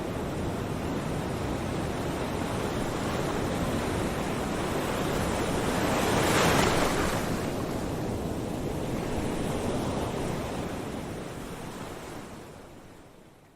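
A steady rushing noise like surf, swelling about six seconds in, then fading out near the end.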